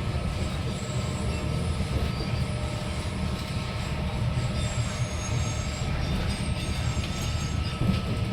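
Steady low rumble heard from inside a Northern Ireland Railways Class 3000 diesel multiple unit on the move, its running gear and engine carrying on over the track, with faint high squealing from the wheels.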